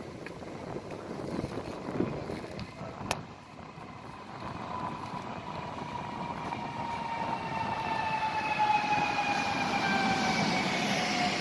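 Train at a station platform, growing louder, with a high whine that falls slowly in pitch from about four seconds in as the train slows. A single sharp click about three seconds in.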